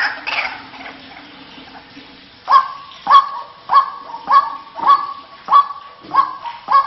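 White-breasted waterhen (ruak-ruak) calling. A busy bout of calls fades at the start, and after a short lull a steady run of sharp, repeated notes begins about two and a half seconds in, roughly one every 0.6 s, each dropping quickly onto a short held note.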